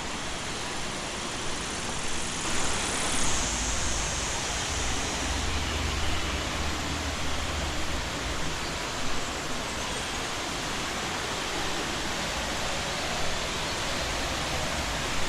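Waterfall rushing: a steady, dense hiss of falling water. A low rumble swells in underneath about three seconds in and lasts a few seconds.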